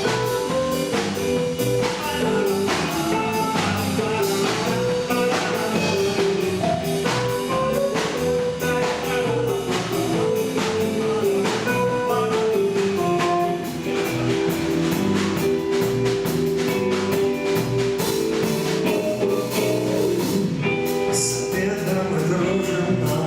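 Rock band music, mostly instrumental: a drum kit keeps a steady beat under guitar and other pitched instruments.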